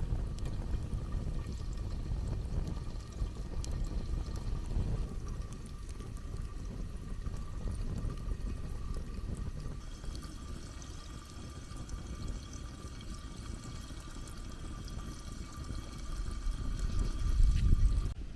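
Campfire burning with a steady hiss and a few faint crackles, under an uneven low rumble of wind on the microphone that swells near the end.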